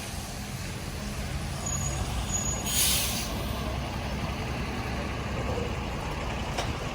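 Heavy road vehicle's engine rumbling steadily, with a short loud hiss about three seconds in like an air brake releasing, over steady rain.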